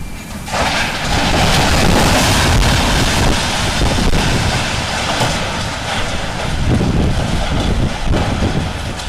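Loud wind buffeting an outdoor microphone: a gusting, rumbling roar with hiss that swells about half a second in and eases near the end.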